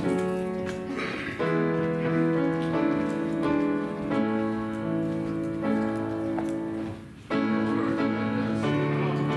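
Piano playing a slow postlude of held chords after the benediction, with a short break about seven seconds in before the next chord.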